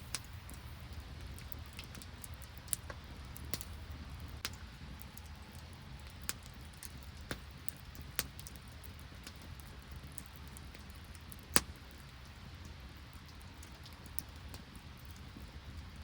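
Wood campfire crackling, with sharp pops at irregular moments and one loud pop about eleven and a half seconds in, over a steady low background hiss.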